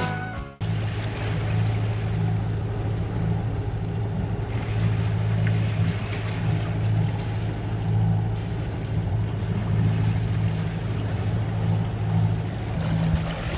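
A sailing yacht's engine running steadily under way at sea, a low even hum, with a wash of water and wind noise over it.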